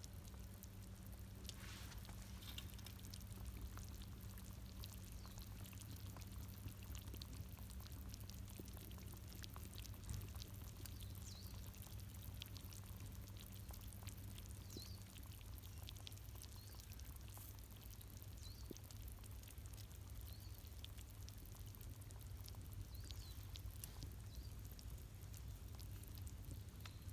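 Faint wood campfire crackling, with scattered small snaps and pops over a low steady hum.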